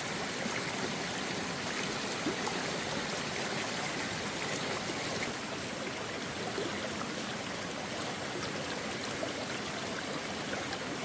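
Steady rushing of rain and running water, an even wash of sound with scattered small ticks of drops.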